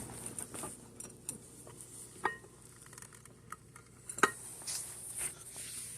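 Ceiling fan motor being shifted around by hand: scattered knocks and light metallic clinks, one short ringing clink a little over two seconds in and the loudest knock about four seconds in.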